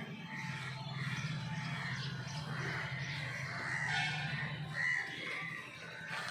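Birds calling irregularly over a steady low hum.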